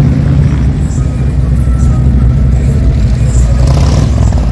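Motor vehicle engines giving a loud, steady low rumble.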